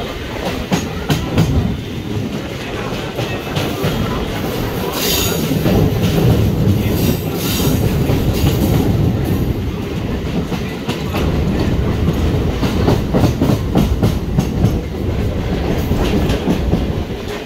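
Chennai MRTS electric suburban train running, heard from inside the carriage: a steady rumble of the wheels on the rails with clickety-clack over the rail joints. A brief high wheel squeal comes twice, about five and seven seconds in.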